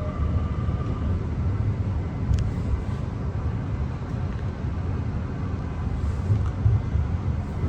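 Steady low rumble inside a carriage of a Mariyung (D set) electric train, with a short click about two and a half seconds in.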